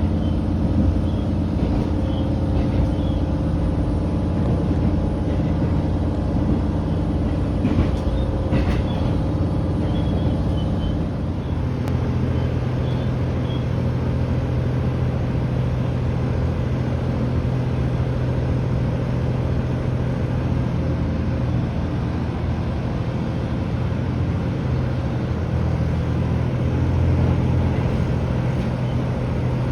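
Steady running noise of a JR Hokkaido H100 series diesel-electric railcar under way: a low engine drone with running noise, the engine note changing about eleven seconds in. A few faint clicks near the middle.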